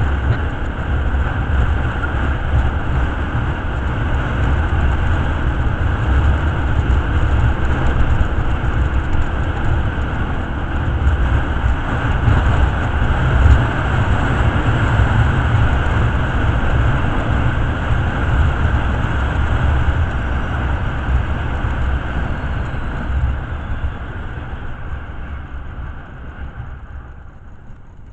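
Motorcycle on the move, a steady rush of engine and road noise with wind buffeting the microphone. It dies away over the last few seconds as the bike slows.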